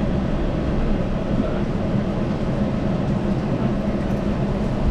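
Yurikamome Line automated guideway train running, the steady running noise of its rubber tyres on the concrete guideway heard from inside the car.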